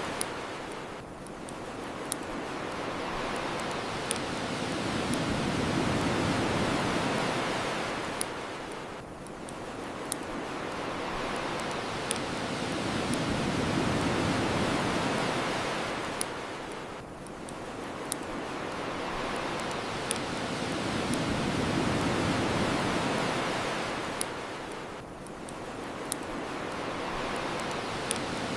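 Ocean surf washing onto the shore, swelling and ebbing about every eight seconds, with a sharp crackle-pop from a bonfire every two seconds or so.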